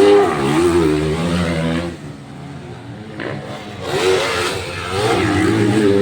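Motocross dirt bike engines revving, their pitch rising and falling with the throttle. They are loudest for the first two seconds, drop back for about two seconds, and rise again near the end.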